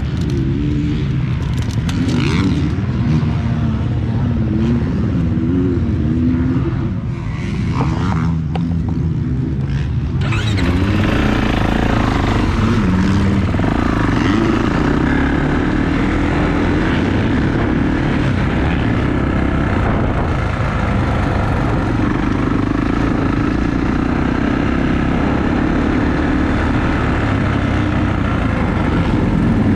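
Dirt bike engine revving, its pitch rising and falling; about ten seconds in it changes to a steadier drone with more hiss.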